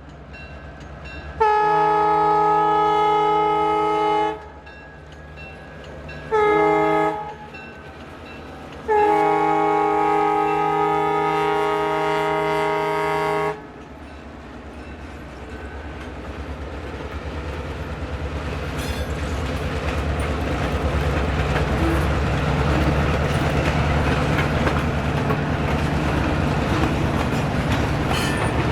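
Diesel freight locomotive's multi-chime air horn blowing the long, short, long end of the grade-crossing signal, followed by the rumble of the locomotives and the rattle of the train growing steadily louder as it approaches.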